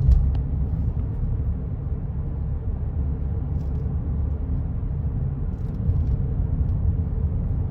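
Car road noise heard from inside the cabin while driving: a steady low rumble of tyres and engine, with a faint steady hum.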